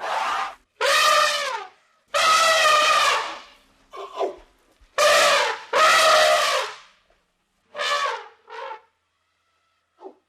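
An animal calling over and over: about eight loud pitched calls, most lasting under a second and bending up then down in pitch, with a few shorter, softer ones between them and short silences in between.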